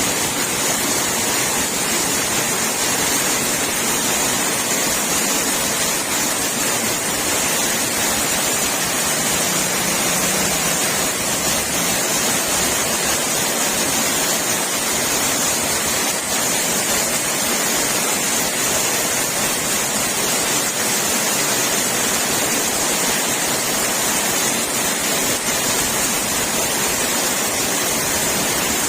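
Heavy rain pouring down while runoff water rushes across a street: a loud, steady rushing hiss that does not let up.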